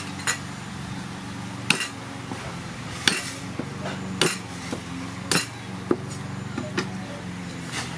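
Knife chopping garlic on a chopping board: sharp, irregular knocks about once a second, some harder than others, over a steady low hum.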